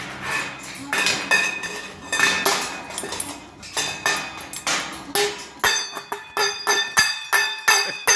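Cockatoo banging and rattling a metal food bowl, a run of clanks that ring after each hit, coming faster, about three a second, near the end.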